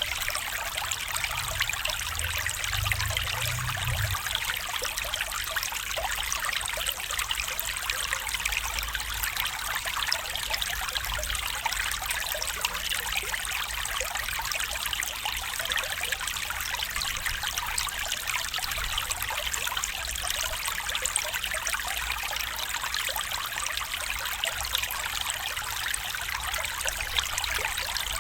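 A small stream running over stones, a steady busy trickle and babble of water with a faint low rumble underneath.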